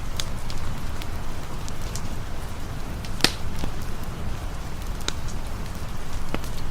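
Steady rain with a low rumble, and a campfire crackling over it in scattered sharp pops, the loudest about three seconds in.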